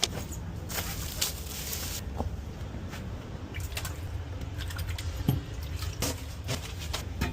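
Steady low rumble in a high-speed train cabin, with scattered light clicks and a short spell of rustling about a second in.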